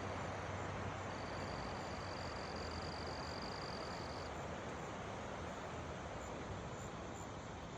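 Steady rushing noise of swollen floodwater, with a thin high steady tone from about one to four seconds in.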